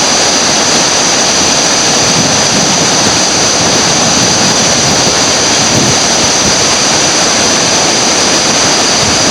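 Whitewater river rapids rushing, a loud, steady roar of water with no breaks.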